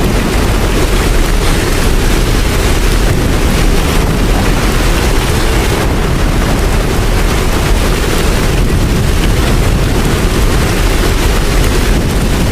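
Steady heavy rain with a deep, even rumble underneath.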